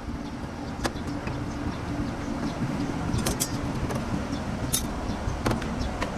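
Workshop noise: a steady low engine-like rumble with a few sharp metallic clinks scattered through it.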